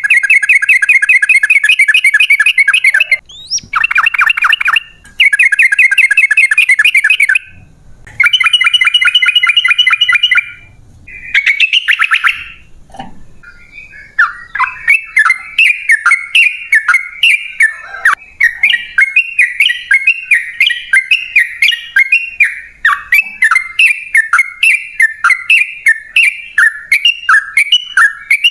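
Yellow-vented bulbul (trucukan) song: loud bursts of rapid rolling trills, each a couple of seconds long with short gaps between, then from about halfway a long run of quick chattering notes, several a second.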